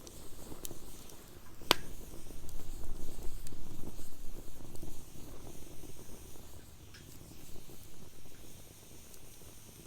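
Wood fire crackling in a fire pit, with one sharp pop about two seconds in and a few fainter snaps over a low, uneven rushing of the flames.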